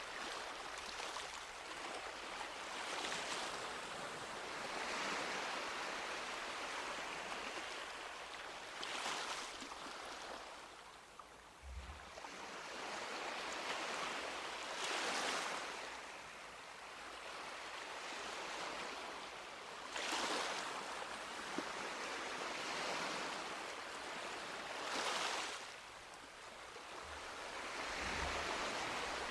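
Small sea waves breaking and washing on a beach, a swell of hissing surf every few seconds over a steady wash.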